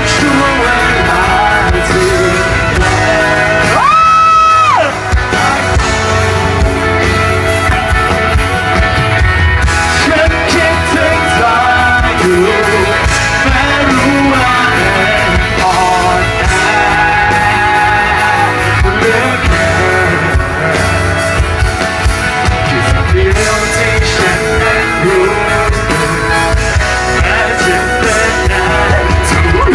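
Live rock band playing, with electric guitars, bass and drums, and singing. A loud, high held note stands out for about a second, some four seconds in.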